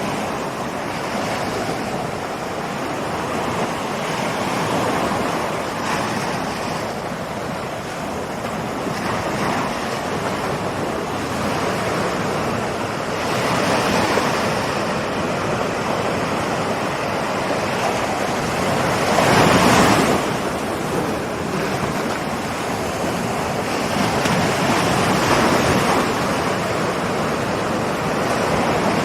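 Ocean surf: waves rolling in one after another as a continuous wash that swells and ebbs, with the biggest wave surging in about two-thirds of the way through.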